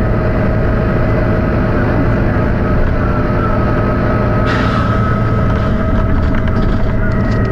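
Volvo B9TL double-decker bus running, its engine making a steady low drone with a thin steady whine over it. About halfway through comes a short burst of air hiss from the bus's air system.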